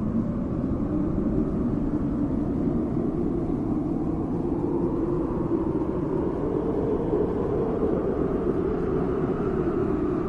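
Steady low rumbling noise drone with no melody, swelling slightly higher in pitch a little past the middle before settling back. It is an ambient noise bed of relaxation music.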